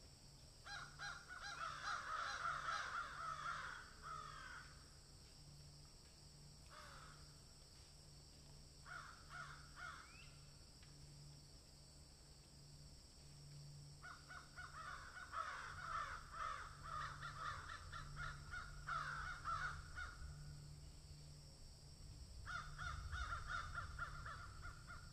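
Harsh bird calls in rapid chattering bouts. A bout of a few seconds comes near the start, short bursts follow, a longer bout of about six seconds sits in the middle, and another comes near the end.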